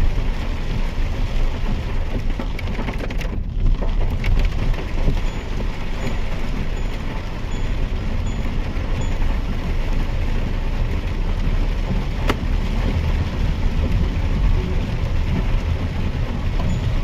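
Mahindra XUV 3XO's turbo-petrol three-cylinder car driving through rain, heard from inside: a steady low rumble of engine and wet tyres under a hiss of rain on the body. The sound cuts off suddenly at the very end.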